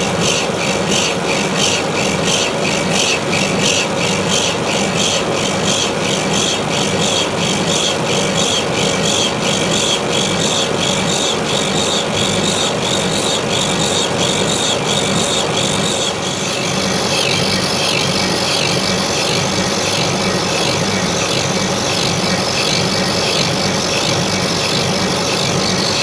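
Metal lathe rough-turning a hardened steel pellet-mill roller, the cutting insert scraping across the hardened surface with a rhythmic pulse about three times a second. About 16 seconds in the scraping pulse stops and a steadier high whine from the running machine remains.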